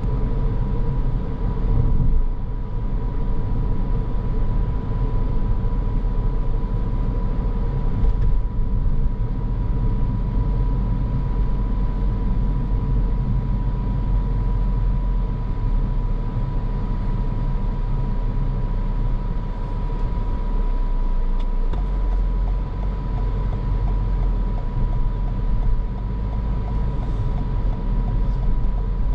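Car driving at steady speed: a continuous low road and engine rumble, with a thin steady tone running through it.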